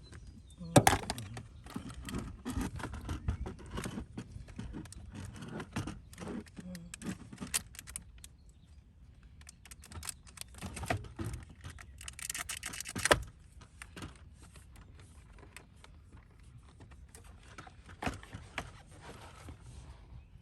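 Handling noise of tools and parts during work on a car's steering wheel: irregular clicks, knocks and clatter. There is a sharp knock about a second in, a rustling clatter ending in another sharp knock around thirteen seconds, then only scattered light clicks.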